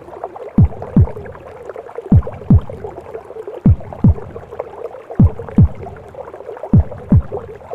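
Heartbeat in the womb sound mix: five slow lub-dub double thumps, about one pair every second and a half, over a steady whooshing womb-noise bed.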